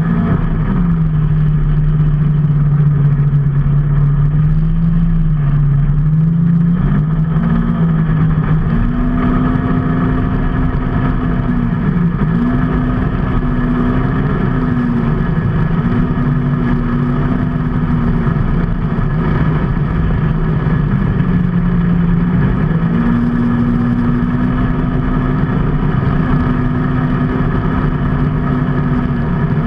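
Vehicle engine running while riding along: a steady engine note whose pitch steps up and down as the speed changes, over a constant low road and wind rumble.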